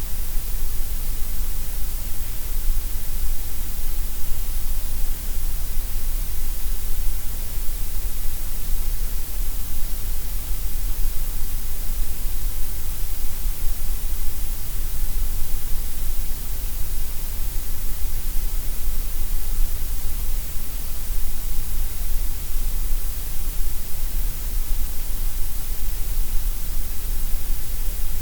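Gray noise: a steady, unchanging hiss, heaviest in the deep bass and the high treble and thinner in the middle.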